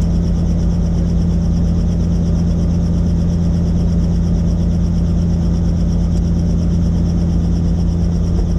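Helicopter in flight heard on board: a steady, loud drone of rotor and engine with a constant low hum.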